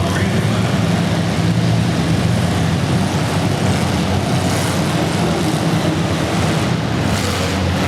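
A steady engine drone: a constant low hum with a wash of noise over it, holding level throughout.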